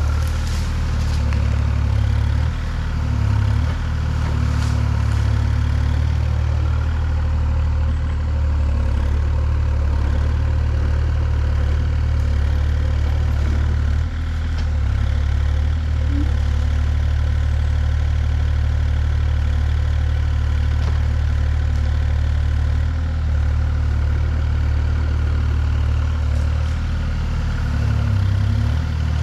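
A deep engine running steadily at low speed, with small dips in level now and then.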